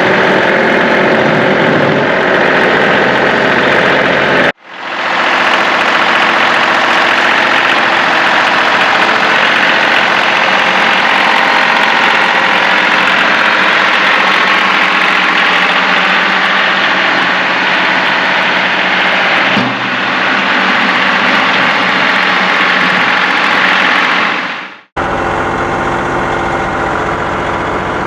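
Engine running steadily, broken by two abrupt cuts. Between the cuts is a long stretch of steady hiss with little low rumble, then engine idling again near the end.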